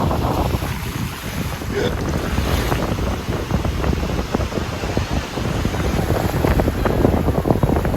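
Wind buffeting the microphone with a crackling rumble, over the steady wash of surf.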